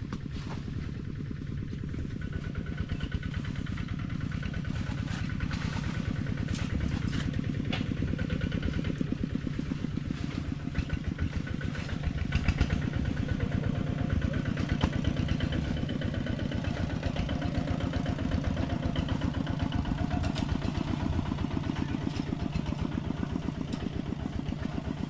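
A small engine running steadily with a fast, even putter. It grows a little louder over the first few seconds, with a few scattered clicks and rattles.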